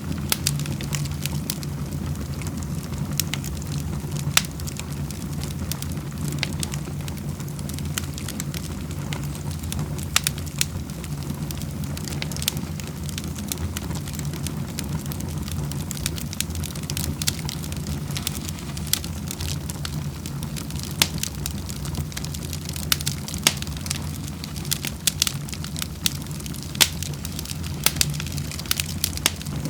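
Wood fire crackling in a fireplace, with frequent irregular pops and snaps over a steady low rumble.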